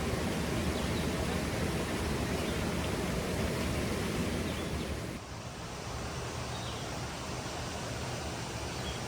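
Steady rushing of a waterfall. About five seconds in it becomes a little quieter and softer.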